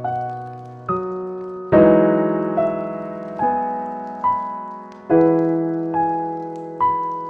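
Slow, gentle solo piano music: a new note or chord is struck about once a second and rings out, fading before the next.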